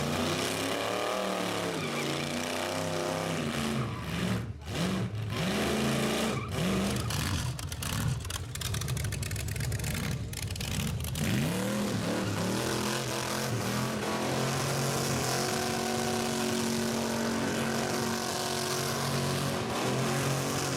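A rat rod's engine revved hard several times in rising and falling blips, then held at high revs for several seconds with a steady hiss above it, as in a burnout on the pad.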